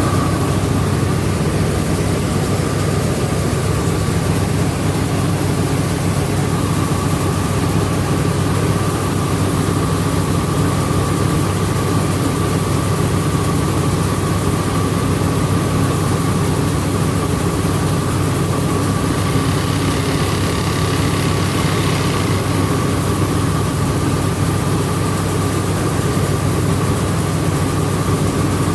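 Rice milling machine running steadily: a loud, continuous mechanical drone with a steady high whine over it. A faint extra hiss joins in briefly about two-thirds of the way through.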